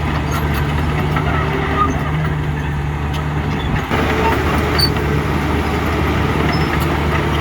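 Heavy diesel engine of earthmoving machinery running steadily at low revs, with a brief dip about four seconds in.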